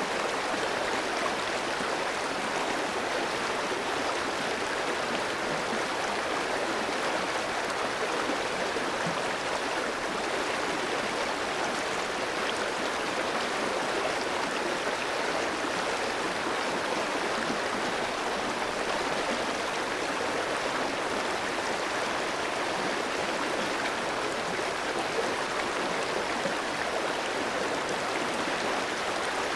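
Clear stream flowing over rocks: a steady rush of running water with fine gurgling, unchanging throughout.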